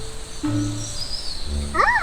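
Background music of sustained synth-like notes changing pitch every half second or so. Near the end, a short animal-like call sweeps up and back down in pitch.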